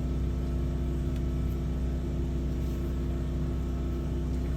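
Sewer water jetter's engine and pump running at a steady drone while jetting a grease-clogged sewer line.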